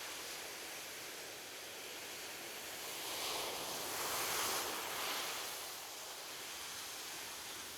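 Sea waves breaking on a shore: a steady hiss of surf, with one wave swelling up and washing in around the middle before easing back.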